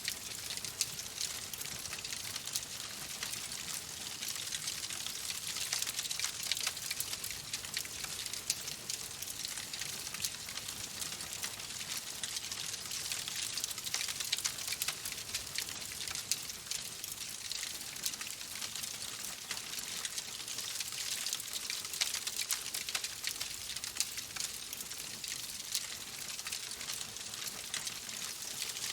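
Wood fire crackling steadily, with many small sharp pops over a soft hiss.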